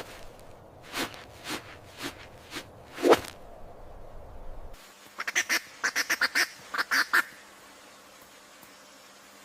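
Bird calls like a duck quacking: about five single calls spaced roughly half a second apart, then, after an abrupt change in the background, a quick run of higher, sharper calls.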